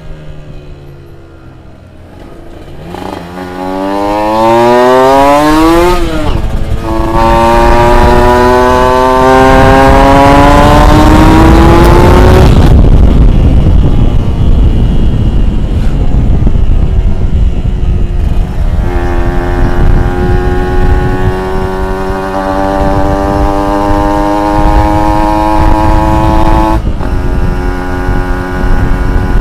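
A two-stroke engine at full throttle. Starting about three seconds in, its pitch climbs steeply, dips briefly, then climbs again for several seconds before breaking off into rougher running. Later it settles into a steadier note that rises slowly, with a sudden small step near the end.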